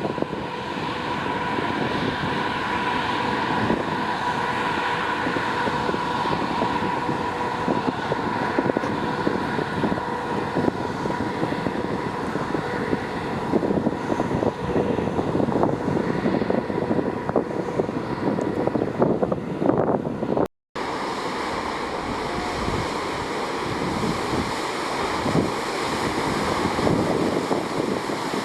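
Wind buffeting the microphone on a ferry under way, over steady ship machinery hum and rushing water. The sound cuts out for a moment about two-thirds of the way through, then resumes much the same.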